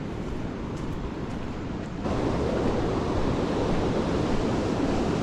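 Steady rush of fast-flowing, hurricane-swollen creek water with wind buffeting the microphone; it grows louder about two seconds in.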